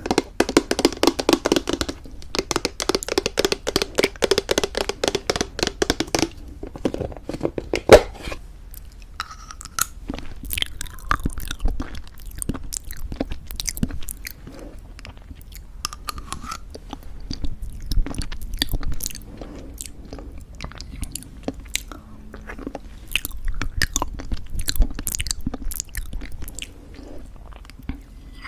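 Close-miked chewing of crunchy homemade granola in thick yogurt. For about the first six seconds there is fast, dense crunching, then softer, sparser chewing and wet mouth sounds. A single sharp click about eight seconds in is the loudest sound.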